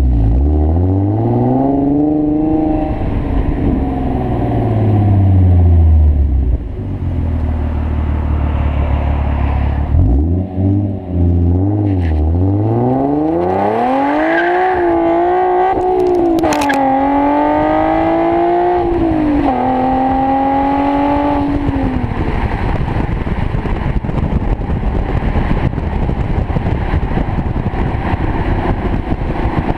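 Infiniti G37S's 3.7-litre V6 through a MotorDyne exhaust, revved several times, the pitch climbing and falling with each rev. For about the last third it settles into a steady idle.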